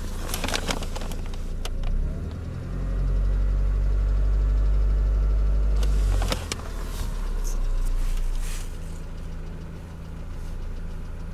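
Mercedes Vito's M111 2.3-litre petrol four-cylinder engine idling at about 830 rpm. For a few seconds in the middle it gives a deeper, louder drone, then settles back.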